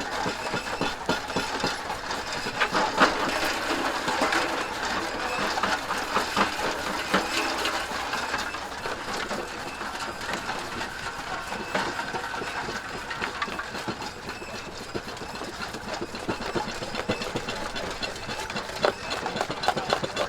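Machinery running steadily, with a continuous clatter of many small clicks and knocks.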